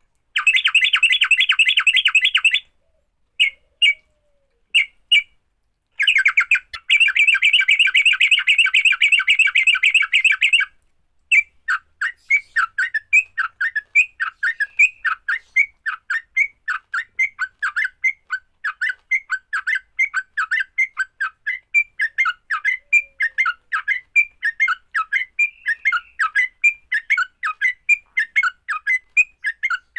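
Yellow-vented bulbuls (trucukan) giving excited fighting calls: two long bursts of rapid, harsh chattering separated by a few short notes. After these comes a long run of quick separate sharp notes, several a second.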